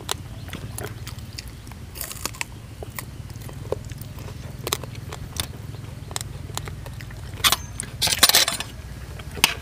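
Close-up eating sounds: chewing, mouth smacks and crunching as fish laab and raw fresh vegetables are eaten, with many small sharp clicks and a denser crunchy patch near the end, over a steady low hum.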